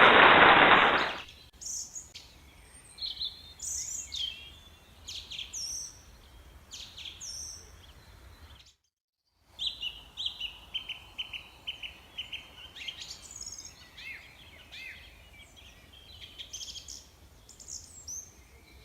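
Small songbirds chirping and singing, with quick high notes and, just after a brief cut to silence near the middle, a rapid trill. A loud sound carried over from before stops about a second in.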